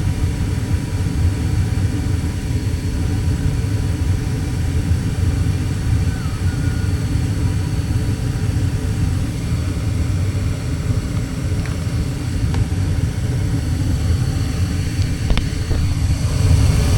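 Gas furnace running after a gas valve replacement, its burners lit and draft fan going, a steady low rumble with a few faint clicks.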